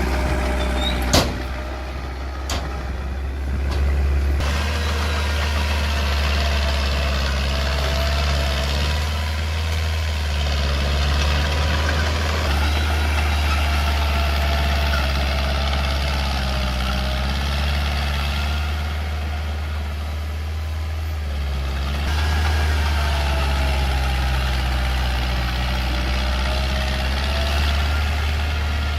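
Mini Komatsu bulldozer's engine running steadily, its note shifting with load as it works, with a sharp knock about a second in.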